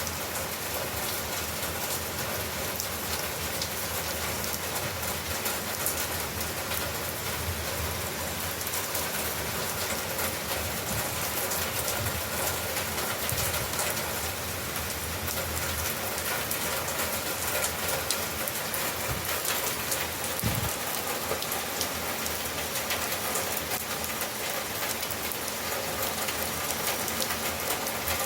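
Heavy rain pouring steadily: a dense, even hiss with the fine patter of countless drops hitting surfaces.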